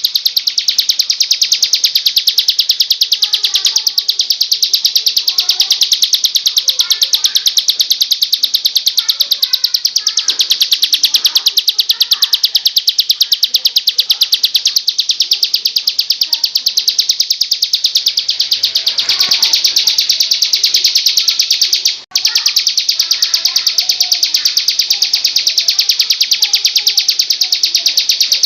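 Bar-winged prinia (ciblek) singing a fast, unbroken run of high, rapid chirps that hardly changes, with one brief break about two-thirds of the way through. Fainter, lower chirps sound underneath.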